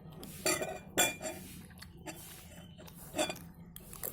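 Cutlery clinking against a plate during a meal of eggs and rice: about half a dozen separate clinks, the loudest about a second in.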